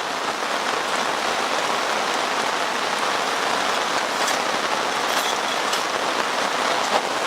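Heavy rain pouring down, a steady loud hiss of falling drops that has just set in.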